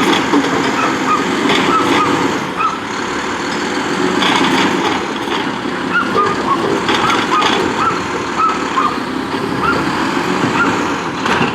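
Mack LR refuse truck with a Heil Durapack Rapid Rail body running, with several short hissing bursts. Many small high chirps recur through it.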